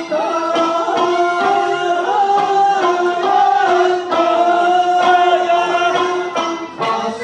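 Okinawan eisa music: a sung folk melody with held, wavering notes over plucked sanshin and drum strokes.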